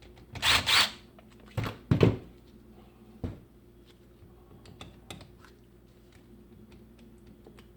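Clicking and rattling of tools and small metal parts being handled while screws come out of a reciprocating saw's gear housing, with a few short, louder rattles in the first two seconds and a sharp click a little after three seconds.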